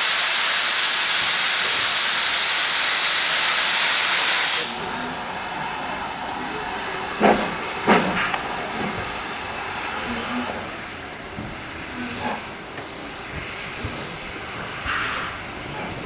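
Steam locomotive letting off steam with a loud, steady hiss that cuts off suddenly about four and a half seconds in. Quieter background follows, with two sharp knocks a little over half a second apart midway through.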